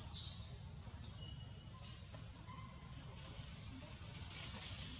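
A bird faintly repeats a short, high chirp about every second and a quarter, over a steady low rumble of outdoor background noise.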